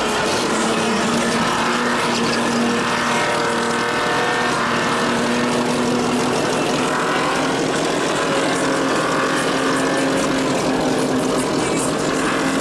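Car engine held at high revs, its pitch steady with slow slight drifts.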